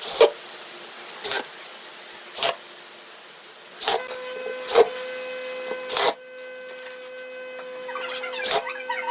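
A series of sharp knocks, roughly one a second, seven in all. A steady hum comes in about four seconds in and runs under the later knocks.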